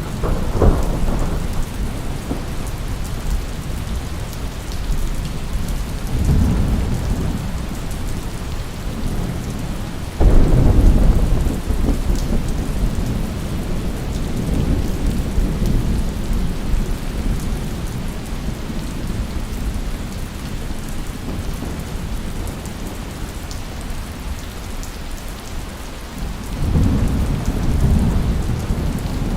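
Steady heavy rain with four rolls of thunder; the loudest begins suddenly about ten seconds in, and others come near the start, about six seconds in, and near the end.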